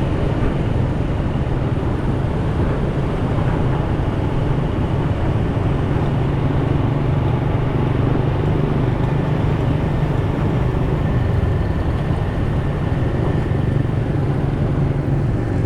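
Motorcycle riding steadily through city traffic: an even engine hum under a constant rush of wind and road noise.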